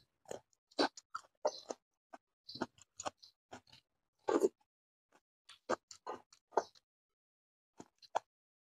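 Wet eating sounds from a man eating rice and fish curry by hand: irregular lip smacks, chewing and finger-sucking, each a short separate click with silence between, the loudest about halfway through.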